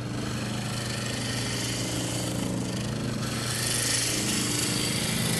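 Wood lathe running with a turning tool cutting along the outside curve of a spinning wooden bowl: a steady motor hum under a hissing cut that grows louder and brighter from about three and a half seconds in.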